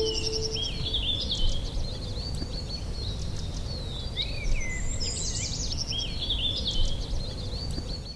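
Several birds chirping and trilling in short repeated phrases, over a steady low rumble of outdoor noise. A held chime-like music note dies away in the first half second.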